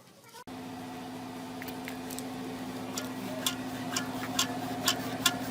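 A small motor starts about half a second in and runs at a steady pitch, with irregular sharp clicks that come more often as it runs.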